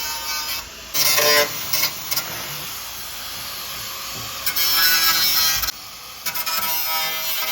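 A power tool works on metal bodywork in several bursts, each a second or more long, with the steady pitch of its motor under the rasping noise.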